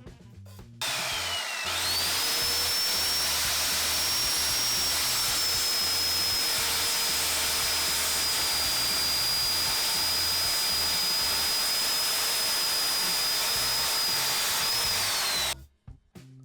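Circular saw running through a long test cut: a loud whine that dips and then climbs in pitch about a second in, holds steady for over ten seconds, and cuts off suddenly near the end.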